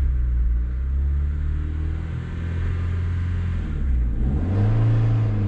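Honda CRX four-cylinder engine running under light throttle as the clutch is let out in first gear, heard from inside the cabin. The engine note dips about three and a half seconds in, then rises and holds higher as more gas is given.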